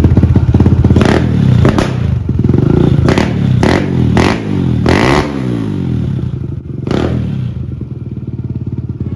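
Kawasaki KLX140's single-cylinder four-stroke engine on a new Mikuni VM26 carburettor, running through a Pro Circuit T-6 pipe. It idles and takes a series of short throttle blips, about seven, with the revs rising and falling around the middle, then settles back to idle.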